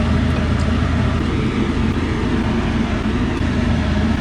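A steady, unbroken rushing noise with a constant low hum underneath, like a running machine.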